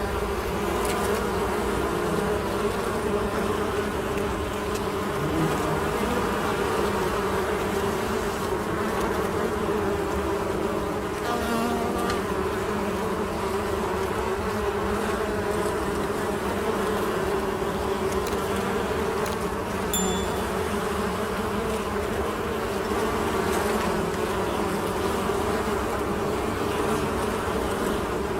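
Honey bees buzzing in a steady, continuous hum.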